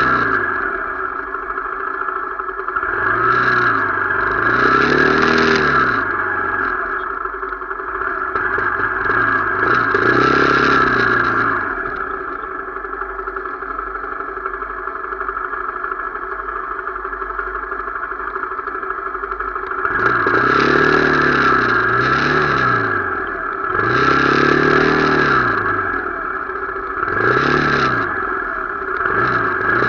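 Motorcycle engine revving up and easing off again and again, its pitch rising and falling over a steady high whine, with a steadier, quieter stretch in the middle.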